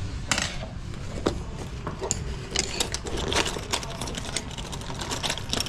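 Irregular clicks and clinks of small metal lock hardware and tools being handled during a deadbolt installation, over a low steady rumble.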